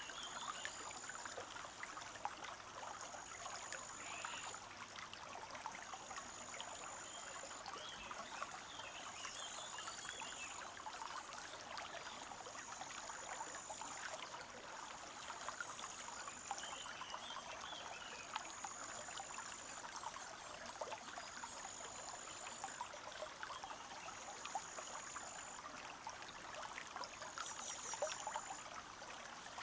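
Forest stream trickling and babbling steadily over stones. A thin high note repeats about every two seconds, with a few brief bird twitters.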